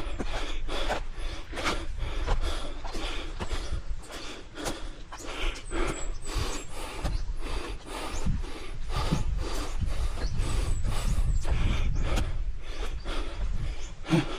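Hikers breathing hard as they climb a steep forest trail, with footsteps landing about twice a second over a low rumble on the microphone.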